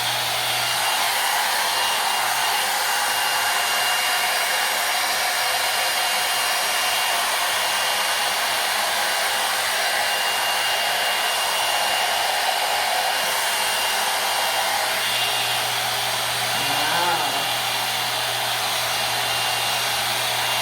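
Hot-air brush hair dryer and volumizer running steadily, blowing with an even rush of air and a thin constant high whine.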